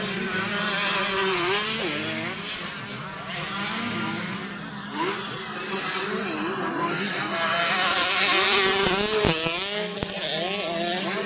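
Several 125 cc motocross motorcycles racing, their engines revving up and down in pitch.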